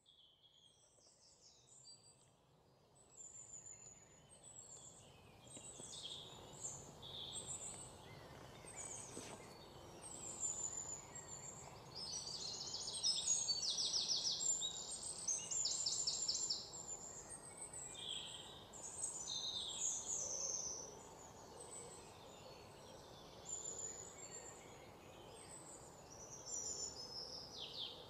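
Many small songbirds chirping and trilling, with short rising and falling notes and fast rattling trills, over a faint steady hiss. It grows louder over the first dozen seconds.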